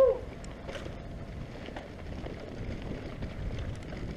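Bicycle riding: steady tyre and wind noise on the microphone with scattered faint ticks, after a brief falling voice-like sound right at the start.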